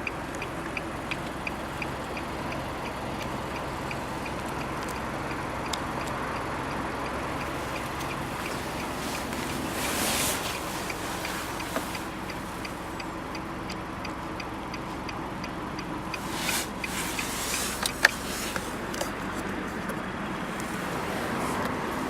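Nissan Juke Nismo's turbocharged 1.6-litre four-cylinder idling steadily, heard from inside the cabin. Light regular ticking runs through the first part, and a few brief knocks and rustles come near the middle and toward the end.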